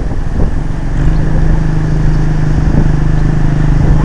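Honda CRF50 dirt bike's small single-cylinder four-stroke engine running at a steady speed; its note settles into a steady hum about a second in, after a noisy rumbling start.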